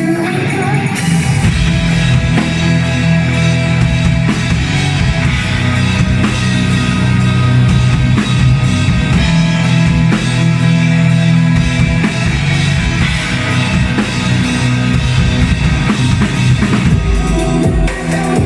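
Live rock band playing an instrumental passage: drum kit and guitar, loud and continuous, with no singing.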